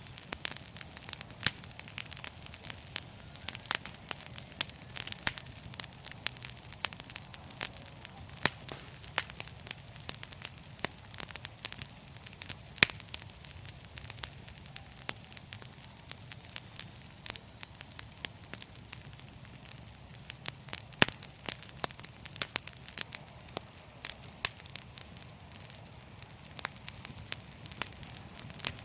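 Fire crackling in a fireplace: many irregular sharp pops and snaps, several a second, over a steady low rumble of the flames.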